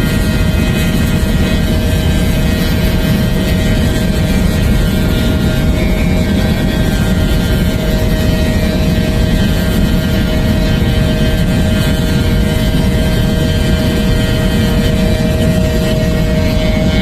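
Steady vehicle engine drone at constant pitch over a heavy low rushing noise, holding unchanged throughout.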